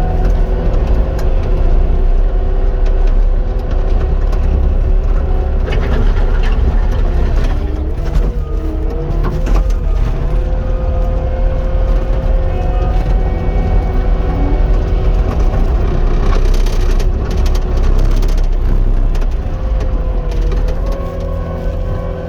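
Cat 259 skid steer's diesel engine and hydraulics running steadily under load, with a whine that dips in pitch a couple of times as the machine works. A few knocks and scrapes at about six, eight and sixteen seconds in.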